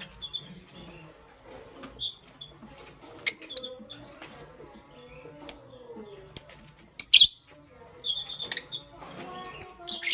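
Lovebirds chirping: short, sharp, high chirps come at irregular intervals over softer chattering. The loudest cluster comes about seven seconds in.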